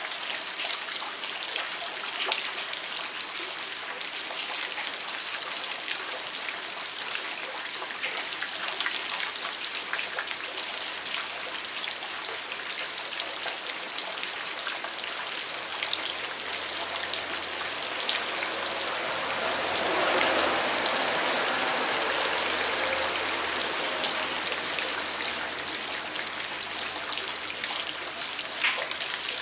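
Steady rain falling, many separate drops ticking on surfaces over an even hiss. Past the middle, a fuller rush of running water swells up for a few seconds.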